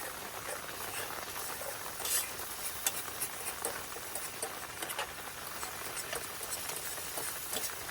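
Spoon stirring a sizzling spice and water mixture in a pan, with scattered short scraping clicks of the spoon against the pan.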